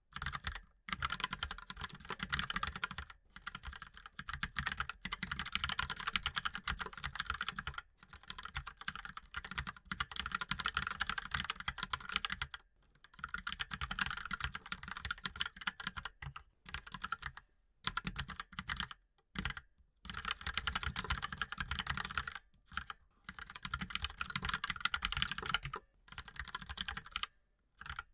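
Continuous typing on a mechanical keyboard: fast runs of keystrokes lasting a few seconds each, broken by short pauses.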